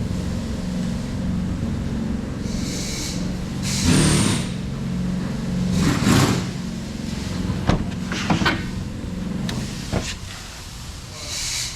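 2021 Ford Mustang's 5.0 L V8 engine idling steadily, with short bursts of hiss and several sharp knocks over it.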